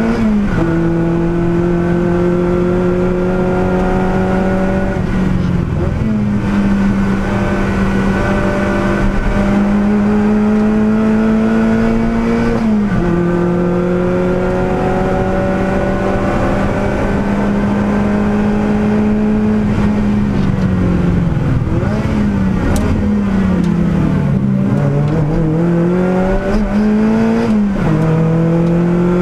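Lotus Elise Cup R race car engine at high revs, heard inside the cockpit. The pitch climbs slowly in each gear and drops sharply at upshifts about a second in, around 13 s and near the end. Between about 20 and 27 s it falls away and then climbs again, as the car slows for a corner and accelerates out.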